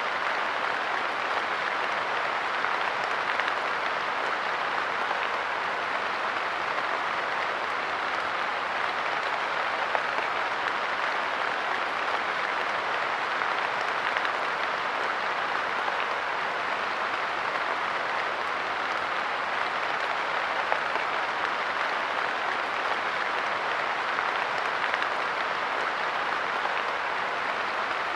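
Steady light rain pattering on a park bench, a dense even hiss of drops with occasional slightly louder ticks.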